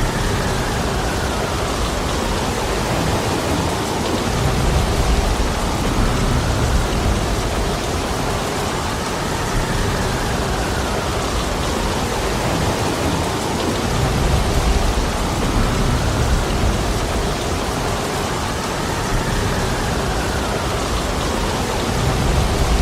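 Heavy rain pouring steadily with wind, as a dense even hiss, with low rumbling swells rising and falling every five seconds or so.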